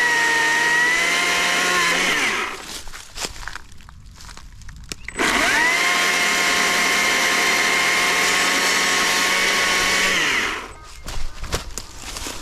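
Gasoline chainsaw cutting firewood, run at full throttle in two bursts, the second about five seconds long. Each burst drops off as the throttle is released, with clicks and knocks between them.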